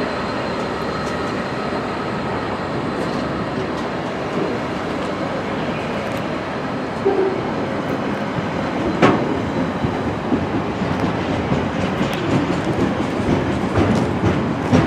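A train running along the track with a steady rumble. About halfway through it grows louder and the wheels start clicking over rail joints, the clicks coming faster near the end.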